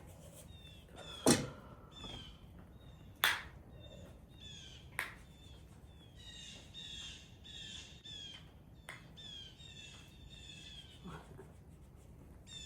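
Small birds chirping in many short, falling chirps. Three sharp knocks stand out above the birdsong, about one, three and five seconds in.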